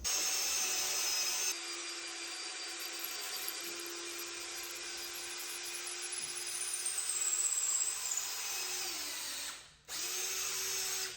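Electric drill boring a hole into wood for a lag bolt, its motor whining steadily. Near the end the whine sags in pitch, stops for a moment, then runs again briefly.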